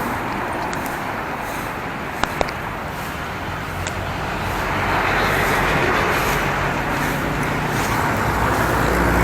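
Angle grinder fitted with a mini chainsaw attachment running, probably cutting into a log, louder from about four and a half seconds in. Two short clicks come a little past two seconds in.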